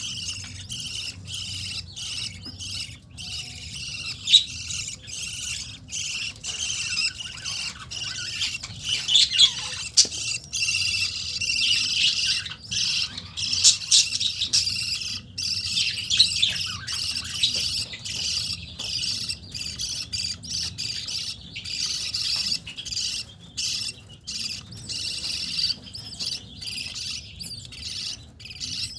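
A group of budgerigars, an adult pair with their chicks, chirping and chattering continuously, with many short sharp squawks over a faint low steady hum.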